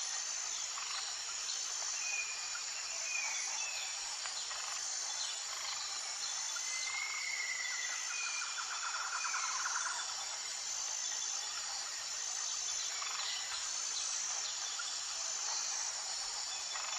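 Outdoor ambience of insects trilling steadily, high-pitched and pulsing, with a few short bird chirps.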